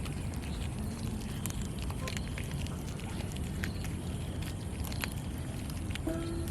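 Cats chewing raw fish: scattered small clicks and crunches over a steady low rumble, with one brief pitched call about six seconds in.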